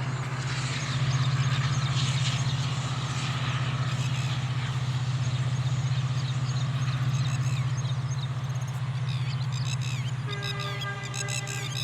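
Small birds chirping over a steady low hum. A few held musical tones come in about ten seconds in.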